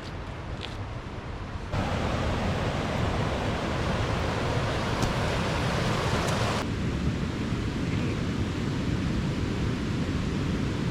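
Rushing water of the River Tees in spate, a steady full noise. It jumps louder about two seconds in, and its higher hiss drops away just past halfway, leaving a deep rumble.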